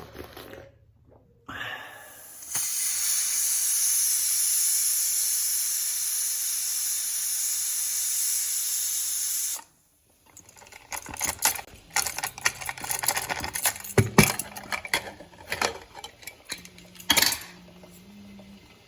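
A steady, loud hiss of steam venting, which stops suddenly about ten seconds in. A scatter of sharp clicks and knocks follows, as of kitchen utensils being handled.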